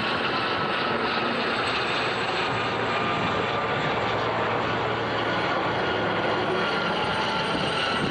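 Aircraft engines in a display formation flying overhead, a steady drone with no breaks.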